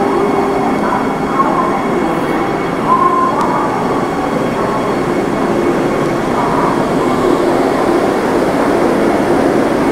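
A train running at a station platform, a steady loud rumble with faint brief squeals.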